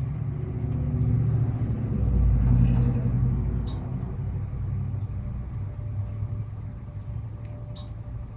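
A motor vehicle's engine rumbling low and steady, swelling louder about two seconds in and then fading off slowly.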